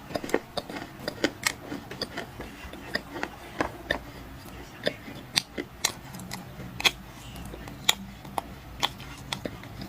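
Dry black clay crunching as it is bitten and chewed close to the microphone: sharp, irregular crunches a few times a second.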